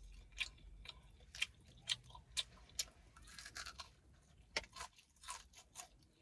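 Close-up mouth sounds of eating Popeyes fried chicken: biting into the crispy coating and chewing, with an irregular string of small crunches and wet mouth clicks. The sharpest crunch comes about two thirds of the way through.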